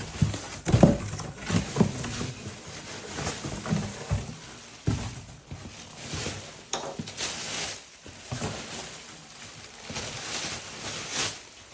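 Handling noises: irregular rustling with scattered knocks and clicks.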